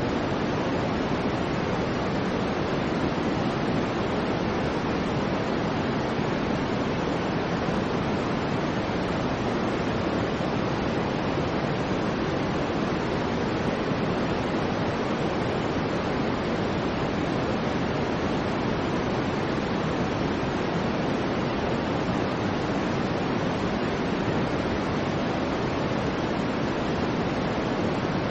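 Soft white noise for infant sleep: a steady, low, even rushing hiss, heavier in the lows than plain white noise, with no swells or changes.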